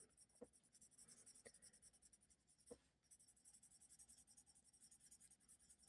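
Near silence: faint scratching of a pen colouring on paper, with a few soft taps.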